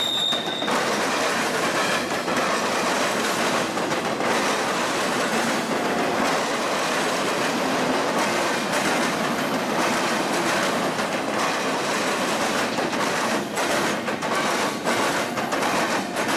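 Norfolk Southern freight train rolling past on curved track: steady wheel-and-rail noise from the locomotives and cars, with a brief high-pitched wheel squeal right at the start.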